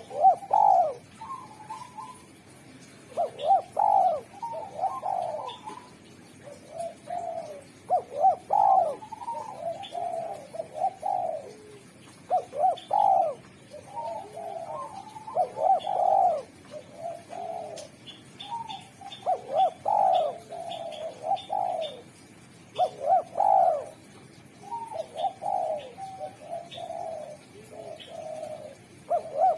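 Spotted dove singing its cooing song over and over, a multi-note phrase repeated every two to four seconds with short pauses between.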